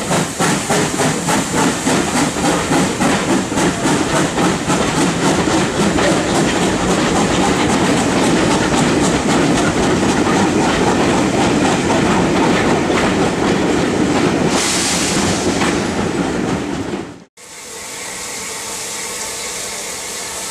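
Steam locomotive pulling away with its train: sharp exhaust beats about three a second that quicken and blend into a continuous running sound of the passing train, with a burst of steam hiss near the end. The sound then cuts off abruptly and is followed by a quieter steady rumble.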